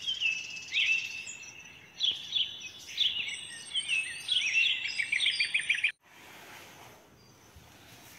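Several birds singing, with quick repeated chirps and trills, cutting off suddenly about six seconds in to faint background noise.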